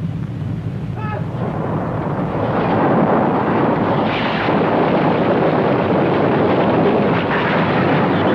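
A loud rushing rumble that builds over the first three seconds and then holds steady, with a brief high pitched cry or whistle about a second in.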